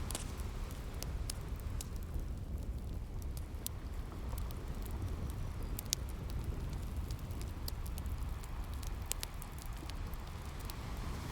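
Wood fire crackling with scattered sharp pops over the low, steady rush of sea waves; the wash of the surf swells near the start and again near the end.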